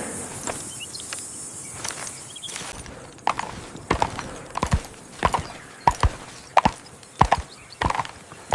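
Regular footfalls on firm ground, a sharp knock about every two-thirds of a second, starting about three seconds in.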